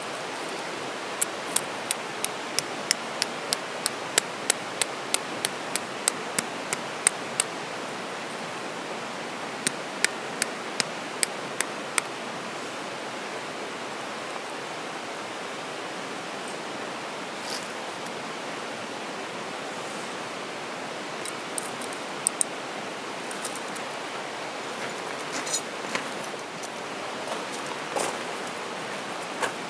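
Steady rush of a stream, with a run of sharp taps about three a second over the first seven seconds, a shorter run a few seconds later, and a few scattered knocks near the end.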